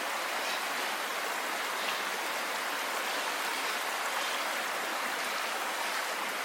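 Keimei Falls' water rushing and splashing in a steady, even roar of falling and flowing water.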